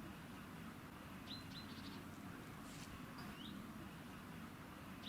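Small birds chirping, with a few short upward-sweeping high chirps: a quick pair about a second in and another a couple of seconds later. Underneath is a faint, steady low rumble.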